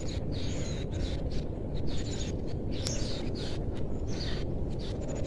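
Birds chirping in short, repeated calls over a steady low rumble of outdoor background noise.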